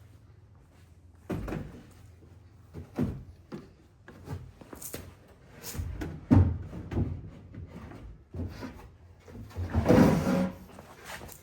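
Homemade drawer being slid along its side runner into the truck-bed platform, with a series of knocks and thumps and a longer, louder sliding rumble about ten seconds in.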